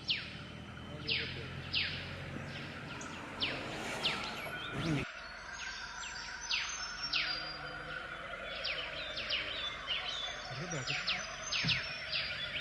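Forest birds chirping: many quick, downward-sliding chirps in rapid succession. A low hum underneath stops abruptly about five seconds in.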